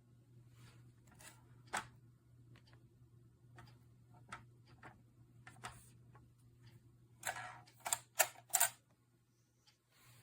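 Scattered light clicks and taps of hard objects being handled, over a steady low hum, with a quick run of four louder clicks near the end.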